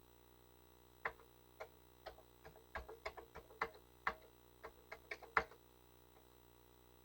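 Keys on a Commodore 64 keyboard being pressed in an irregular run of about fifteen clicks, testing the keyboard just after it was cleaned and reassembled.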